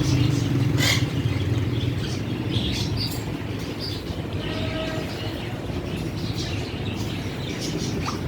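Pet parrots chirping in short, scattered calls over a steady low rumble.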